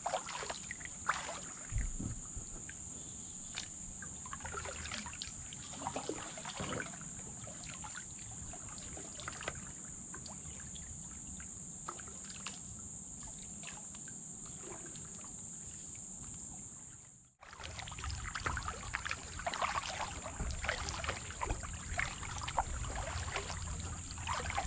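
Kayak paddle strokes: slow, irregular dips with water splashing and dripping, over a steady high insect drone. The sound cuts out for a moment about 17 seconds in.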